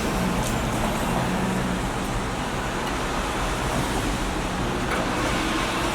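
Steady background noise with a low hum, even and unbroken.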